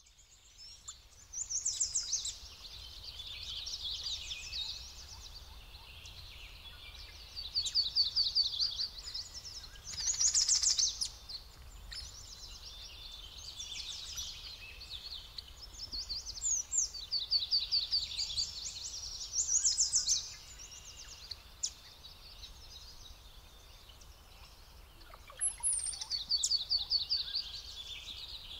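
Several songbirds singing, with high trilled phrases of rapidly repeated notes coming every few seconds and overlapping one another over a faint steady background noise.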